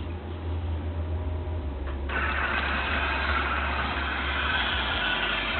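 Small electric motors of a Roomba-based robot with an OWI-535 robot arm running, over a steady low hum, with a louder, noisier motor sound switching on about two seconds in and holding steady.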